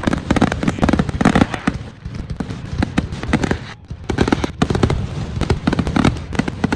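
Fireworks display: a rapid, dense run of bangs and crackles, with a short lull about four seconds in before the bursts pick up again.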